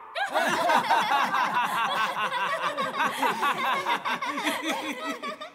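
A studio audience laughing together from a TV comedy show, many voices overlapping.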